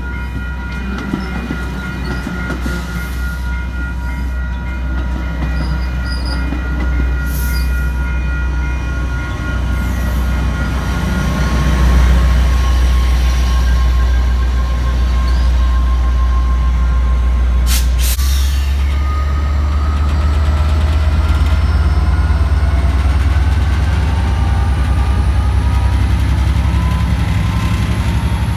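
Diesel commuter train passing at close range: bilevel passenger cars rolling by with a steady high wheel squeal, then the diesel locomotive's engine rumbling louder as it goes past about halfway through.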